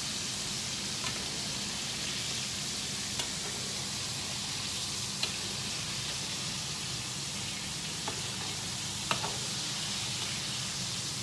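Battered chicken pieces frying in hot oil in a non-stick frying pan, a steady sizzle. A few faint clicks come through as the pieces are turned with a spatula.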